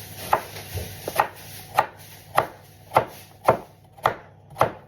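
Kitchen knife chopping vegetables on a cutting board: eight sharp, evenly spaced chops, a little under two a second.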